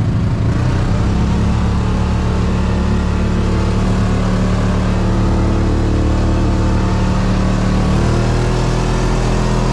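Side-by-side UTV's engine running at a steady pitch while driving, with a slight shift in pitch about eight seconds in.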